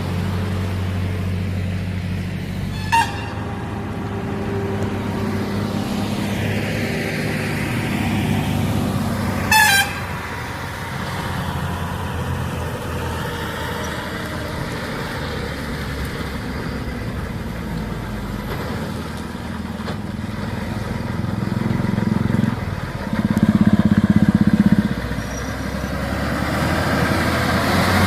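Heavily loaded truck's diesel engine running with a steady low rumble, with two short sharp blips about 3 and 10 seconds in. A loud horn blast sounds for about two seconds near the end.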